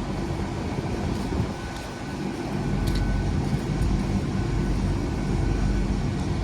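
Great Western Railway Class 800 bi-mode train standing at the platform, its underfloor diesel engines idling steadily, with a low rumble and wind noise.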